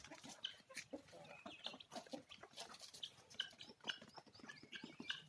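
Chickens and guinea fowl clucking and calling faintly, many short calls in quick, irregular succession.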